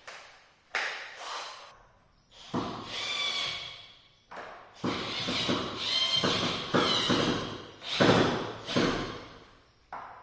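Metal clanks, knocks and high squeaky scraping of a door and its hasp being handled while a padlock is fitted, in a series of separate bursts, the loudest near the end.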